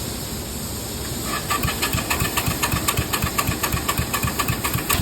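Cub Cadet lawn tractor engine cranking over on its electric starter. From about a second in it chugs in an even rhythm, about five beats a second, with a high whine from the starter above it.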